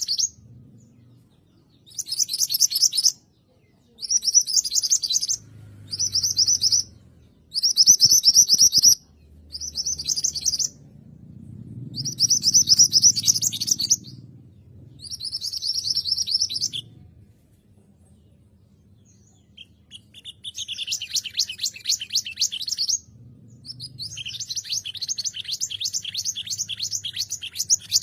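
Mantenan gunung song: fast, high trills of rapid repeated notes, each run lasting a second or two. The runs come in a series with short pauses and one longer gap about two-thirds of the way in.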